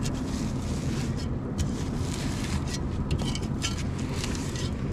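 A tractor engine idling steadily, with a shovel scraping frozen manure off a manure spreader's axle in irregular strokes.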